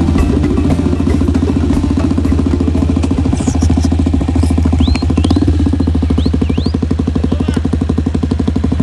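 Motorcycle engine running steadily with a rapid, even pulse. A few short, high, rising chirps come between about five and seven seconds in.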